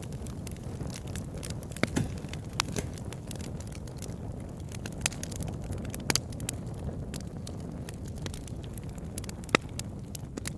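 Campfire burning: a steady low rumble of flames with irregular sharp crackles and pops from the wood, the loudest pops about 2, 6 and 9.5 seconds in.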